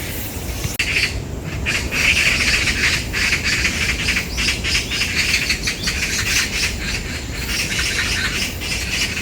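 A group of magpies chattering in harsh, rapid, overlapping calls, starting about a second in: the noise of magpies fighting over territory.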